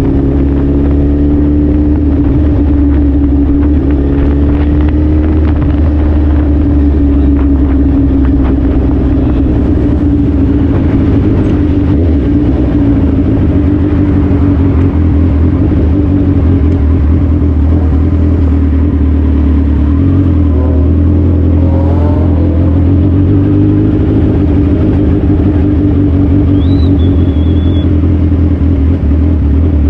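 Suzuki Hayabusa motorcycle's inline-four engine running steadily under way, its pitch holding fairly even with small rises and falls.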